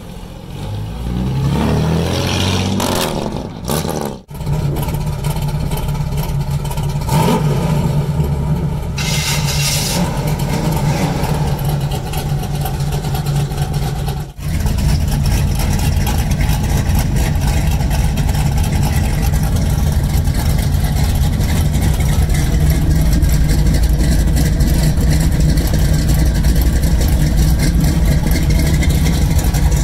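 Classic car engines. First an early-1950s Chevrolet pickup revs as it pulls away, its pitch rising in steps. Then, after a break, an engine runs steadily, and from about halfway a loud, steady idle is heard close to a car's tailpipe.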